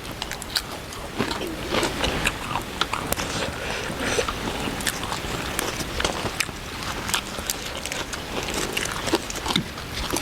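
People eating: chewing and biting, with many irregular crisp clicks and crackles throughout.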